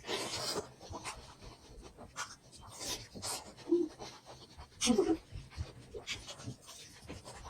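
Close-miked chewing and wet mouth sounds of a person eating momos, with irregular short smacks and breaths and a brief hum about four seconds in.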